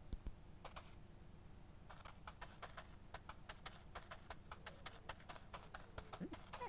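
Quiet, light clicking taps in an irregular run, a few at first and then several a second from about two seconds in, with a short low gliding tone near the end.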